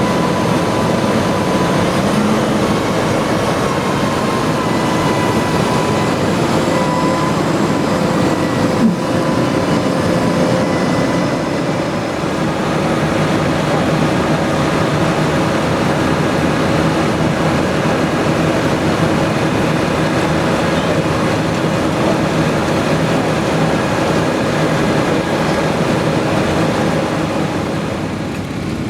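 Tractor engines running steadily at close range: a loud, even drone with a few faint tones that waver slightly. There is one brief knock about nine seconds in.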